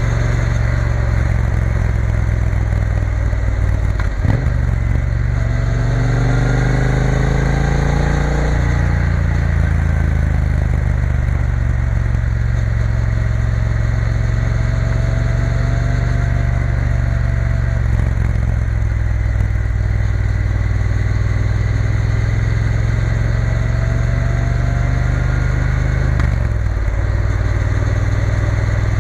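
Triumph Bonneville T120's parallel-twin engine running under way. The engine note breaks briefly about four seconds in and again near the end, and rises as the bike accelerates between about six and nine seconds.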